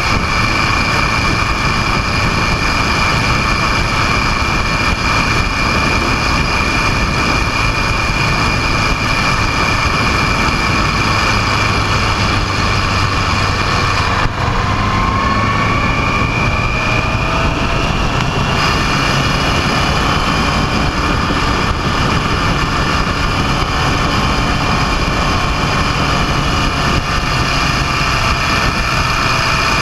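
A motorcycle running steadily on the move, its engine mixed with constant rushing noise. A few faint rising pitch glides come in about halfway through.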